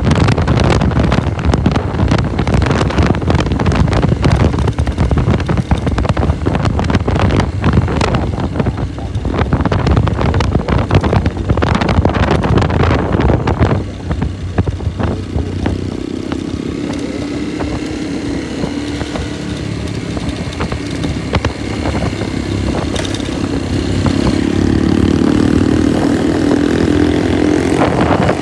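Motorcycle riding along the road, with heavy wind buffeting the microphone for the first half. Then the wind eases and the engine note comes through, rising as the bike accelerates near the end.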